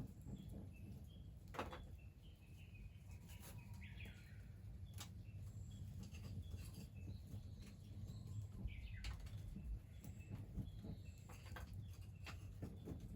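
Faint bird chirps and calls over a steady low rumble, with scattered sharp clicks.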